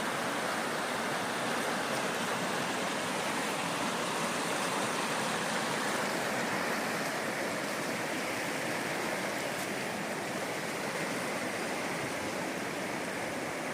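Steady rush of running water from the waterfall's stream, an even hiss without change.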